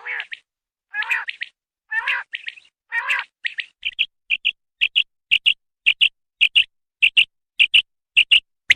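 Common quail calling: a few drawn-out, lower notes in the first three seconds, then a steady run of short, sharp notes in close pairs, about two pairs a second.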